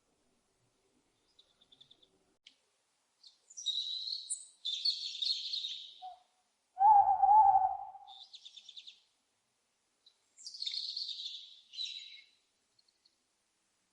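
An owl gives one loud, steady-pitched hoot about halfway through. Small birds chirp and trill high-pitched in several bursts before and after it.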